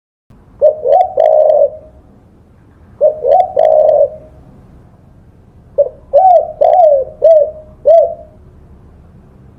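Spotted dove (tekukur) cooing: three phrases of low, hooting coos, the last a longer run of five or six short notes.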